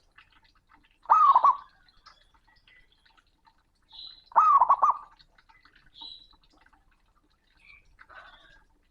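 Male zebra dove (perkutut) cooing loudly: two short calls about three seconds apart, each an opening coo that rises and falls, followed by a quick run of notes.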